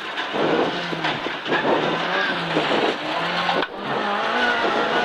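1400 Sunbeam rally car's engine heard from inside the cabin, driven hard along a stage, its pitch rising and falling with the throttle over loud road and wind noise. It dips briefly about three and a half seconds in, as at a gear change or lift, then picks up at a higher pitch.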